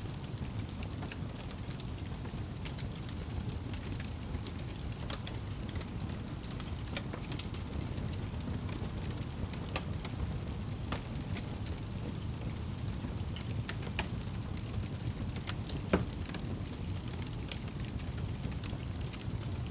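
Crackling fire with rain: scattered sharp crackles and one louder pop late on, over a steady low rumble.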